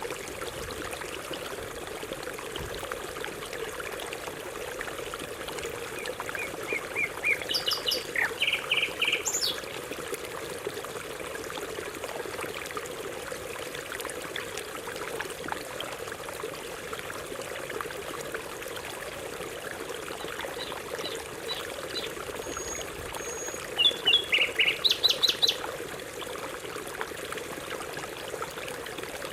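Steady running water trickling throughout, with a canary singing two short bursts of rapid trilled notes: one about seven seconds in and another near the end.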